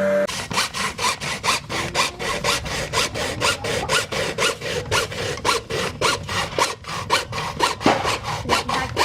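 Hand saw cutting with quick, even back-and-forth strokes, about four a second.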